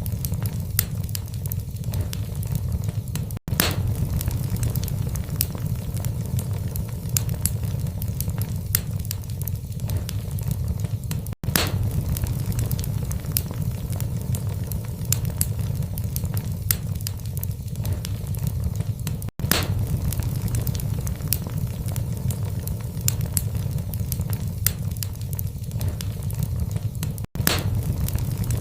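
Log fire in a fireplace burning with a steady low rumble and frequent irregular crackles and pops of burning wood. The sound cuts out for an instant about every eight seconds, where a short recording of the fire is looped.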